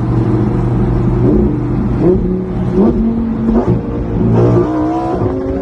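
Car engine revving and accelerating hard, its note climbing in several steps through the first few seconds and rising again near the end.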